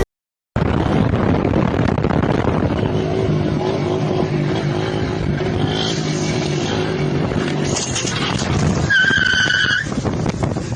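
Car engine and road noise recorded from inside a vehicle, starting after a short silence. A high-pitched squeal lasting about a second comes near the end.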